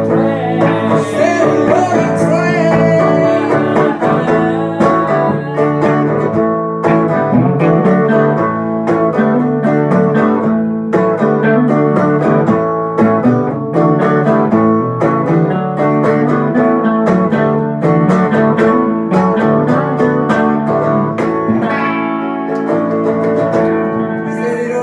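Blues guitar music, plucked strings playing throughout, with some singing.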